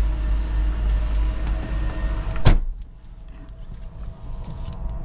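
1995 Mercedes-Benz E320's straight-six idling steadily just after a cold start. A single sharp knock comes about two and a half seconds in, after which the sound is quieter, with a few faint ticks.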